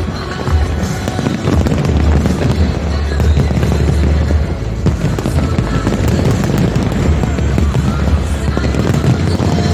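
Fireworks display bursting in a dense, continuous barrage, many bangs overlapping into a steady rumble.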